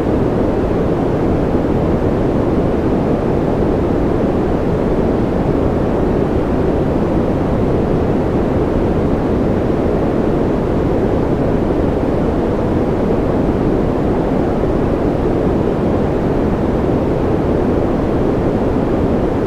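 Steady, unchanging white noise of the kind played for sleep, weighted toward the low and middle range so that it comes across as a deep, even hiss rather than a bright one.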